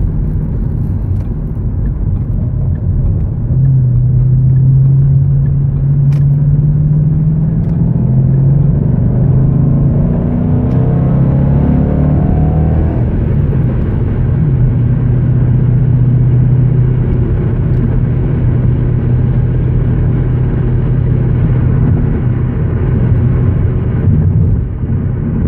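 Ford Mustang engine and road noise heard from inside the cabin. About four seconds in the car pulls away, the engine note rises for several seconds, then settles into a steady low drone while cruising.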